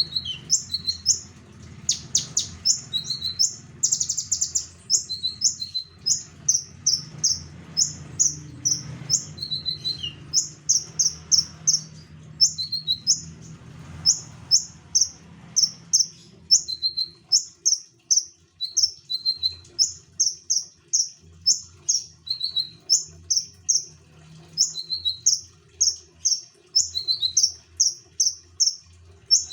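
A konin songbird singing steadily in full song: quick, high chirps, mostly in short clusters of two to four notes, repeating several times a second with occasional slightly lower notes. A faint low hum runs underneath.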